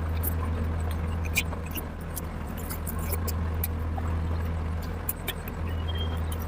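Wet chewing and mouth clicks from someone eating curry, a scatter of short sharp clicks over a steady low hum.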